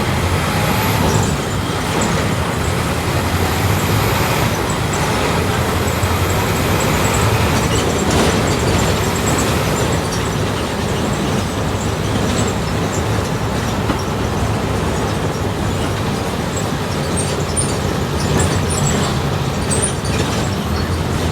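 Volkswagen 17.230 OD city bus engine running steadily under way, heard from inside the passenger cabin, with road noise.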